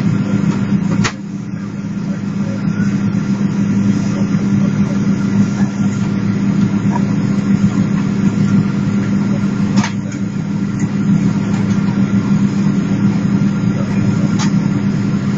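Steady low hum inside the cabin of a Boeing 777-300 on the ground after landing, with a few sharp clicks, one about a second in where the hum drops slightly, others near ten and fourteen seconds.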